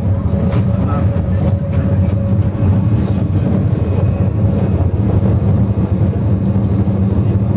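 Rigi electric rack-railway train running slowly uphill, heard from inside the cab: a steady low motor hum and running rumble, with a faint thin whine that fades out about two seconds in.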